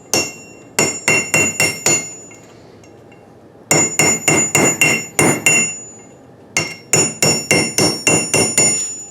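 A hammer striking a chisel set against a stuck bolt on an axle ring gear, in three quick runs of six to eight blows each with short pauses between, each blow ringing with a bright metallic tone. The bolt is being driven around a little at a time and is starting to turn loose.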